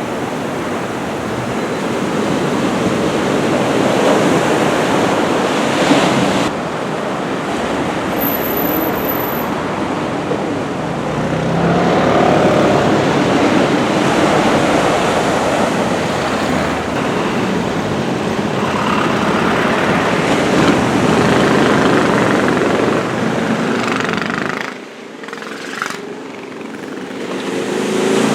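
Steady rushing of heavy surf raised by an approaching typhoon, mixed with wind on the microphone and passing road traffic. The noise swells and eases slowly and dips briefly near the end.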